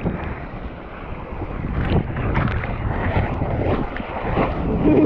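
Wind buffeting the microphone over the rush of ocean surf, with a few short knocks and splashes.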